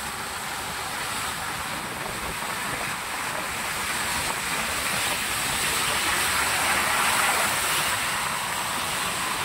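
Heavy rain falling and tyres hissing on a wet road: a steady hiss that swells a little past the middle and eases near the end.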